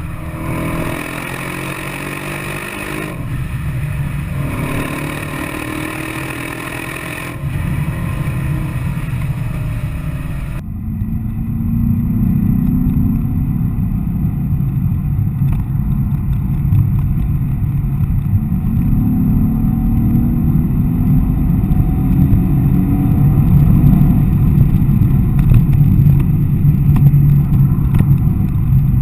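Mercedes-AMG E63 S 4Matic's twin-turbo V8 running hard under acceleration, its pitch rising in several sweeps. About ten seconds in, the sound turns abruptly duller and deeper, then grows steadily louder.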